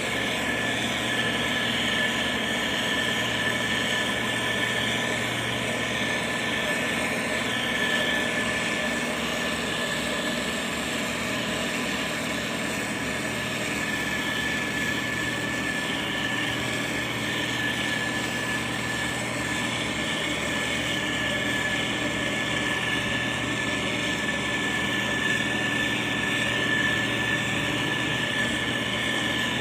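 Heavy diesel road-construction machinery running steadily, with a constant high whine over the engine.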